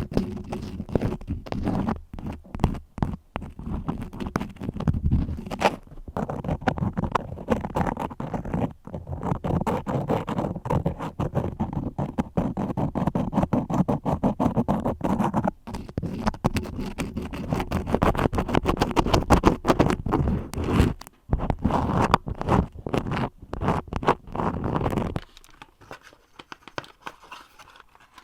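Wax crayon scribbling close to the microphone: a fast, dense run of scratchy, scraping strokes that stops about 25 seconds in, after which only faint small sounds remain.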